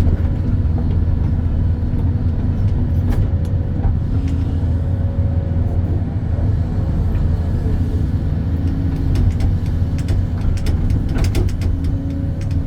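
A hydraulic excavator's diesel engine running steadily under working load, its hum shifting in pitch now and then, with scattered sharp clicks and knocks.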